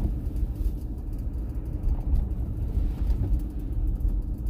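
Steady low rumble of a car being driven, with engine and road noise.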